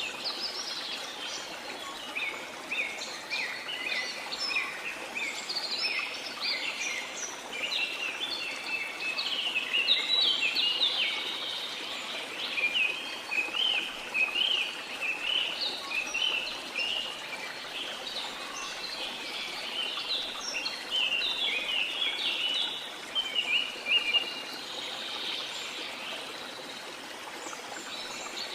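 Many birds chirping in quick, busy chatter over a steady rush of water; the chirping thins out near the end.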